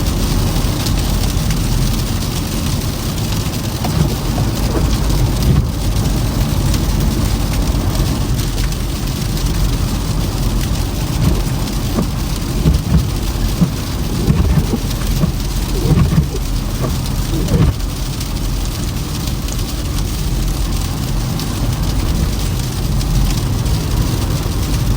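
Toyota Camry driving through snow and slush: a steady hiss of tyres on the wet, snow-covered road over a low rumble, with scattered small crackles.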